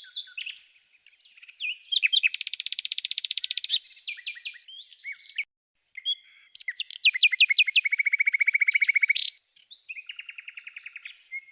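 Songbird singing: varied phrases of very fast trills and sharp chirps, with a brief pause about halfway through.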